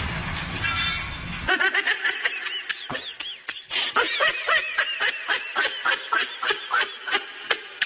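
A dense outdoor rumble and hiss that cuts off abruptly about a second and a half in. It is followed by high-pitched giggling laughter in quick repeated bursts, a laugh sound effect.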